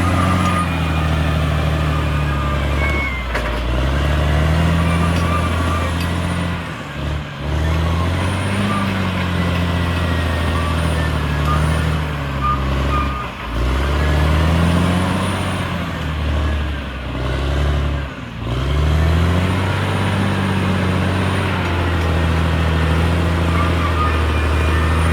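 CAT D6R XL bulldozer's diesel engine working hard under load. Its pitch sags and recovers several times as the blade pushes and the load eases.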